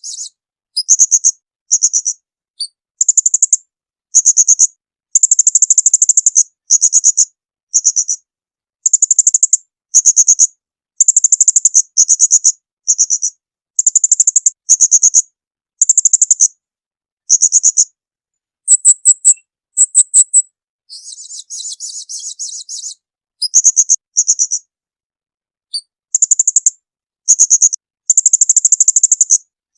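Small songbird's rapid high-pitched trills and rattling bursts, repeated one after another with silent gaps between them, as in an edited masteran birdsong training recording. A softer, buzzier trill comes about two-thirds of the way through.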